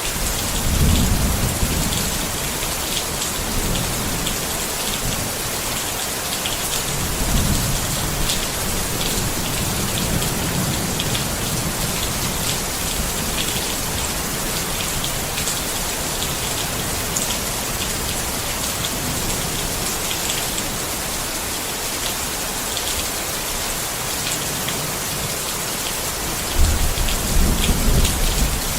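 Steady rain falling on a tent, with many individual drops striking the fabric. Low thunder rumbles about a second in, again a few seconds later, and louder near the end.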